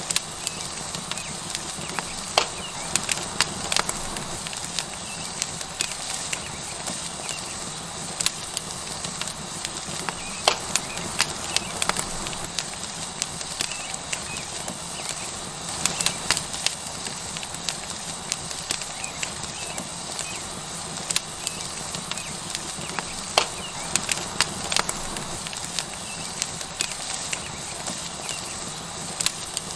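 Tomahawk steak sizzling on a hot rock over a wood fire, a steady hiss, with the burning wood crackling in sharp, irregular pops.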